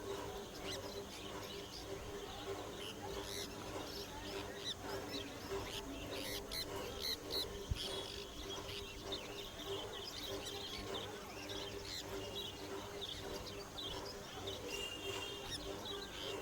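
Many caged birds chirping and twittering in short, high calls throughout, over a steady low hum.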